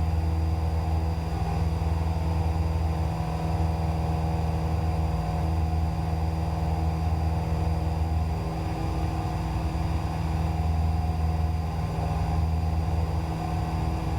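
Cessna 172's piston engine and propeller droning steadily at climb power during the climb-out after takeoff, with a slow waver in the low hum.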